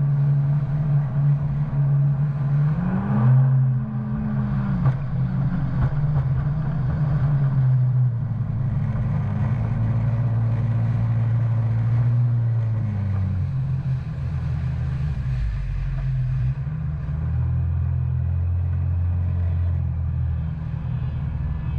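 Engine of a 2019 Yamaha FX SVHO WaveRunner running under way. Its pitch rises and falls back briefly about three seconds in, then drops in steps in the second half as the throttle eases.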